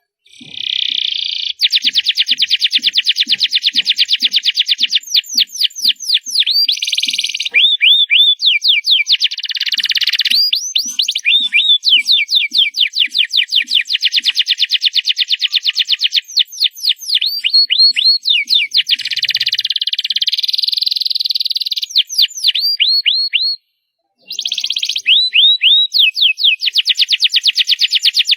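Domestic canary singing loudly: a long song of fast rolling trills and quick runs of repeated sweeping notes, with one brief break about three-quarters of the way through.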